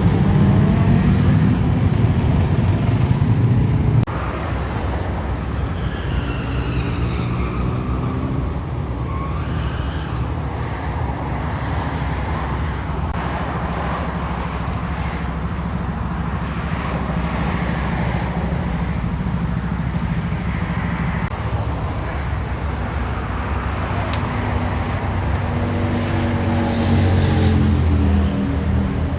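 Big motorcycle engines running steadily, with revs rising and falling a few times and a louder burst of revving near the end. The level drops suddenly about four seconds in.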